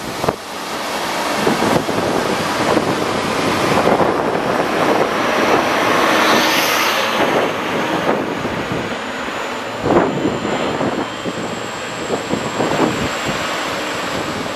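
Intercity train pulling away: coaches rolling past on the rails, a steady rumble with a few knocks from the wheels, and heavy wind noise on the microphone; a thin high whine joins in about halfway through as the DB Class 218 diesel-hydraulic locomotive draws away.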